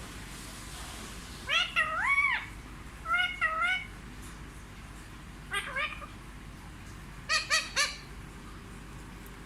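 Indian ringneck parrot vocalising in four short, high-pitched bursts of talk-like sounds with pitch sliding up and down, separated by pauses of a second or more.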